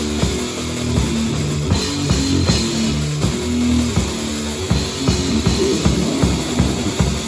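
Heavy metal band playing live: a distorted guitar and bass riff over a drum kit, with the drumming getting faster and denser in the second half.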